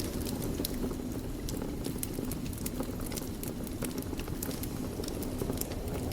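Wood fire crackling in a fireplace: irregular sharp snaps and pops over a steady low rush of burning.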